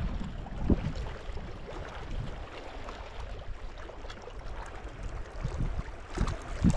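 Wind buffeting the microphone in gusts, a low rumble that eases off in the middle and picks up again near the end.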